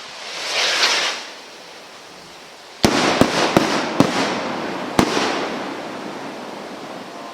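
A firework rocket hisses up briefly, then about three seconds in bursts with a loud bang. Four more sharp reports follow over the next two seconds over a crackle that slowly fades.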